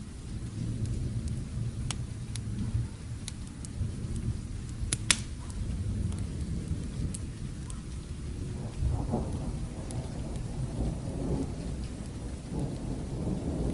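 Steady rain with a low rolling rumble of distant thunder, dotted with sharp crackles and pops from a wood fire, the loudest pop about five seconds in.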